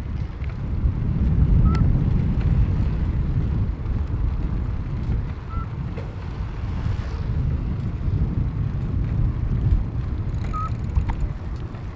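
Wind buffeting the microphone with a steady low rumble, and a few brief faint high chirps.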